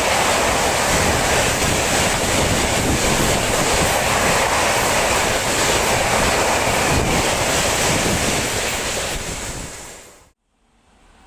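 A train passing close by at speed: a loud, steady rush of wheel and wind noise that fades away about nine seconds in and then cuts off suddenly.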